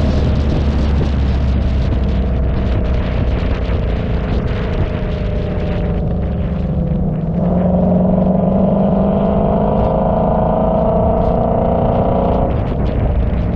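A car's engine running as it drives, with a steady low rumble; the engine note rises about seven seconds in and drops back near the end.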